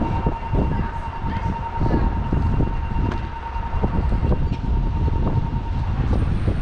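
Wind buffeting and rumble on an action camera riding on a moving electric bike, with irregular knocks. A single steady high tone sounds over it and stops near the end.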